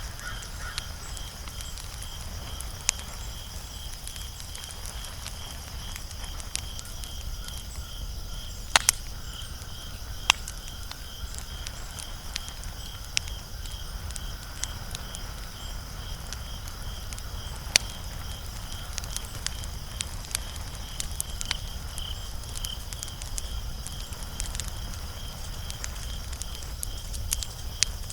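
Wood fire crackling: scattered sharp pops and snaps, the loudest about 9, 10 and 18 seconds in. A steady, evenly repeating high chirp runs behind them.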